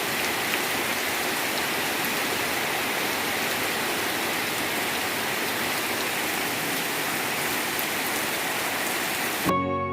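Heavy rain falling, a steady even hiss. Near the end it cuts off suddenly and plucked guitar music starts.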